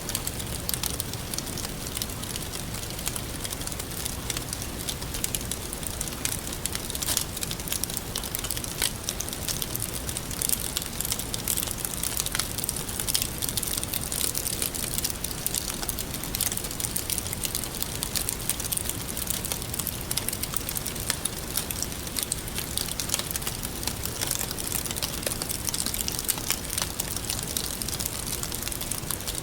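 Wood fire burning with steady crackling and irregular sharp pops, over a constant low rush.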